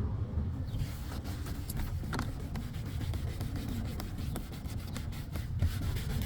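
A cloth wiping and buffing a car's interior door panel, with short, irregular rubbing strokes.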